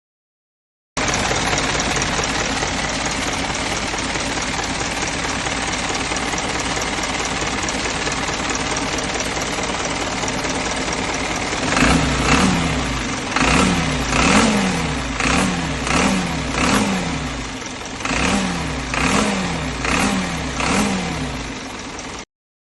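Isuzu Elf truck's 4HG1 four-cylinder diesel engine running steadily with a clattering, noisy tone, then revved in about ten quick throttle blips, each a short rise in pitch, over the second half.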